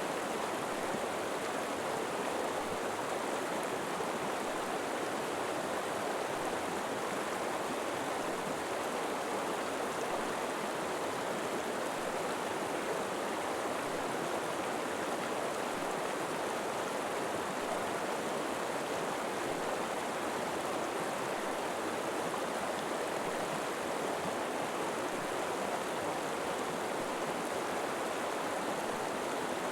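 A river running steadily, a constant even rush of flowing water.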